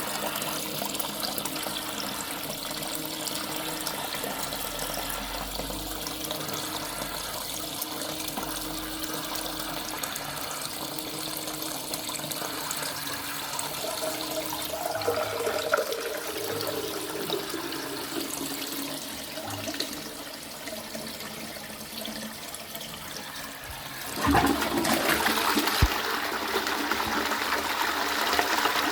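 Twyford Option close-coupled toilet cistern filling through its ball-type fill valve: a steady water hiss with a tone that falls in pitch midway, then quietens. About 24 s in, the lever flush is operated and water rushes loudly into the pan.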